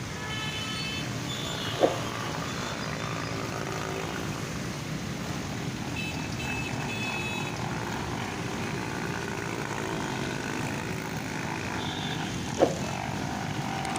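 Steady engine and traffic noise from vehicles in a jam on a waterlogged road, with a few faint brief high tones and two short sharp sounds, one about two seconds in and one near the end.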